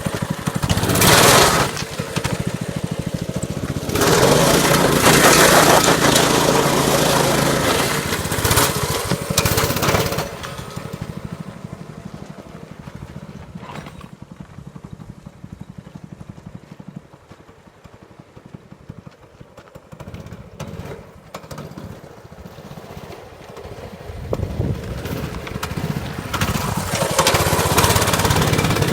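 Small single-cylinder dirt bike engine revving hard, loudest in a short burst about a second in and again from about 4 to 10 seconds, then dropping away to a lower running sound before building loud again near the end.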